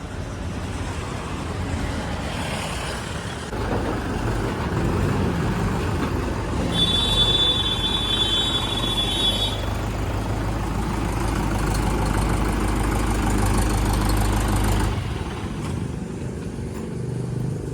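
Heavy vehicle engine running. It grows louder about four seconds in and eases off near the end, with a high steady squeal lasting about three seconds in the middle.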